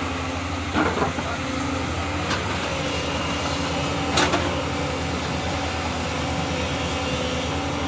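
Diesel engine of heavy earth-moving machinery running steadily under a constant drone, with three sharp metallic knocks, the loudest just after four seconds in.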